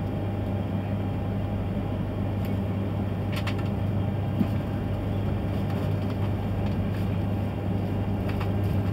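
Interior running noise of an E3-series Komachi shinkansen pulling through a station: a steady low hum and rumble, with a few faint clicks, the clearest about three and a half seconds in.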